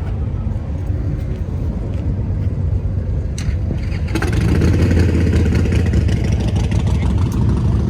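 A motorcycle engine running close by, a low pulsing rumble that grows louder and fuller about four seconds in.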